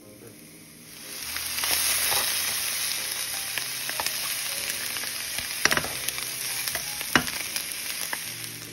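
Italian sausages and chicken drumsticks sizzling as they brown in a hot frying pan. The sizzle swells in about a second in and holds steady, and a metal utensil clicks sharply against the pan a few times, loudest twice in the second half.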